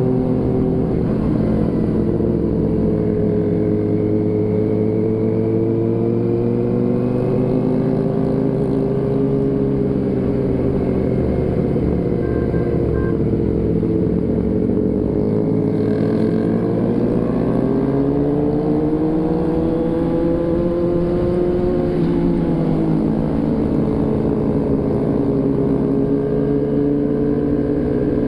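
Vehicle engine running while under way, its pitch drifting slowly up and down as the speed changes, over a steady low road-and-wind rumble.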